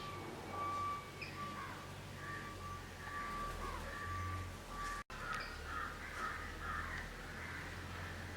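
Crows cawing, a series of short harsh calls that come thicker in the second half. A faint steady high tone sounds in the background, breaking off now and then, and the sound cuts out for an instant about five seconds in.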